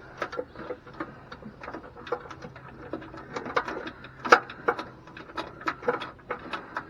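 Irregular small metal clicks and taps, two or three a second with one sharper knock about four seconds in, from step-rail mounting bolts and brackets being worked and threaded in by hand.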